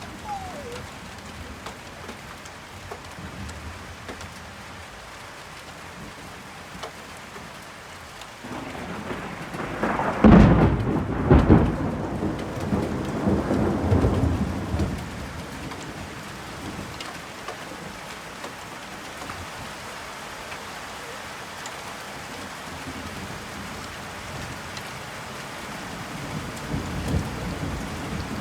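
Steady rain falling, with a long peal of thunder rumbling in about nine seconds in and fading over several seconds, and another clap beginning near the end.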